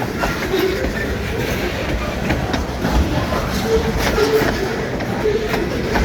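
Cars of a long train rolling past, a steady rumble with wheels clicking over the rail joints and short faint squeals now and then.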